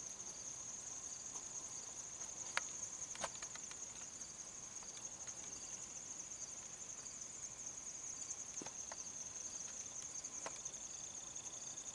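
Insects trilling in a steady, high-pitched chorus, with a few faint clicks scattered through.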